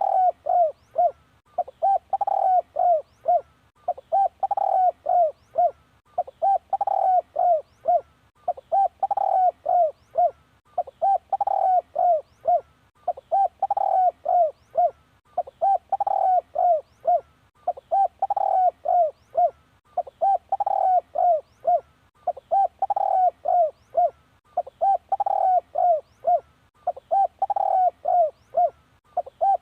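Spotted dove cooing: the same phrase of several quick coo notes repeats evenly, about once every two seconds.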